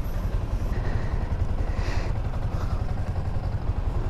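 Motorcycle engine idling steadily with an even low pulsing, and a brief rustle of raincoat fabric being handled about two seconds in.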